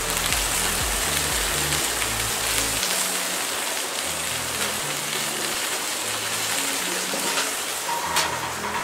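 Duck-breast burger patties sizzling on a gas grill's griddle plate: a steady frying hiss, with a bass line of background music underneath. Near the end the grill lid comes down with a short metallic clank.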